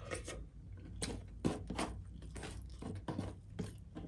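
Close-miked chewing and mouth noises of a person eating with his fingers: an irregular string of short wet clicks and smacks, a few a second.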